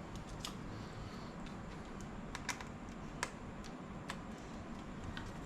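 A few light, separate clicks and taps of a Phillips screwdriver working at the screws in a laptop's case.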